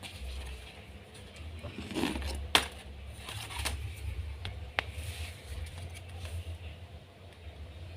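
Origami paper being handled and creased: rustling and a few sharp clicks, the loudest about two and a half seconds in, over a low steady hum.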